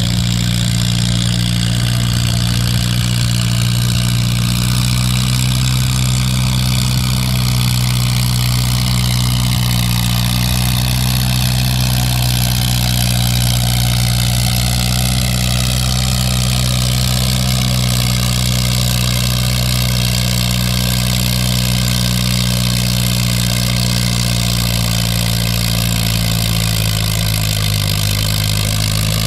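Antique farm tractor engine running at a steady speed, its pitch easing slightly lower over the second half.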